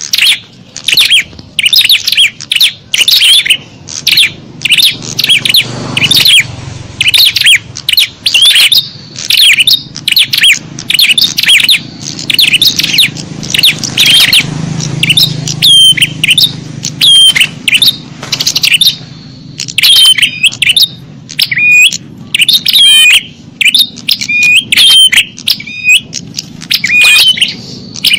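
Small-bird lure call: many small songbirds chirping rapidly in a dense, noisy chorus. About halfway through, a short hooked chirp starts repeating over and over above the rest.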